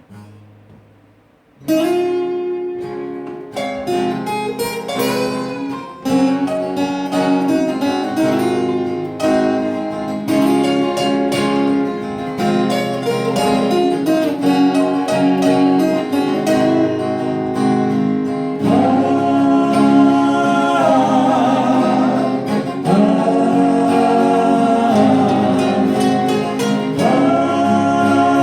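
Acoustic guitar music starts with plucked and strummed chords about two seconds in, and singing comes in over the guitars about two-thirds of the way through.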